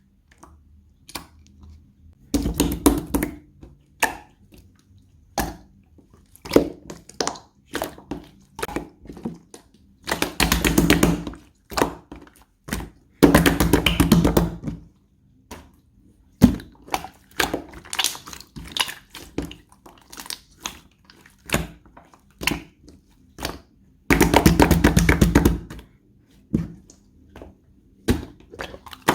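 Clear slime being pressed and squished by hand, giving scattered sticky clicks and pops with four longer bursts of rapid crackling.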